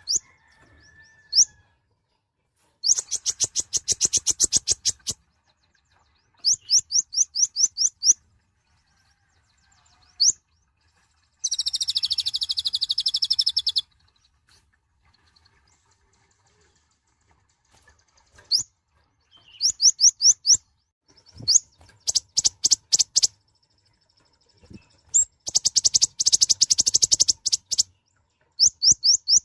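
Kolibri ninja (konin), a sunbird, singing loud, high-pitched bursts of rapidly repeated chirps, with short pauses between phrases. One longer, continuous buzzy trill comes about halfway through.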